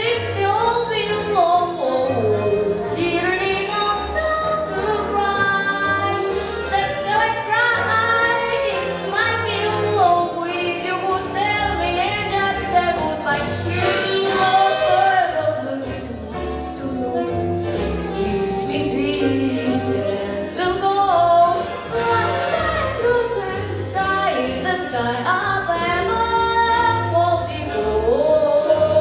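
A female solo voice singing a slow melody with long, gliding held notes over instrumental accompaniment.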